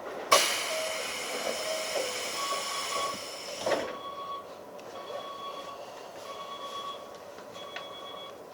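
Inside a Keikyu 1500 series train car, a loud ringing electronic signal starts suddenly and sounds for about three and a half seconds, typical of a station departure signal. A thump follows near four seconds in, then short repeated beeps about a second apart.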